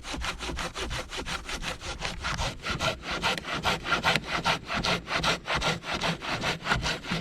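Silky Zubat curved pull-stroke pruning saw cutting through a fallen tree log about ten to twelve inches thick, in quick, even back-and-forth strokes, about five a second.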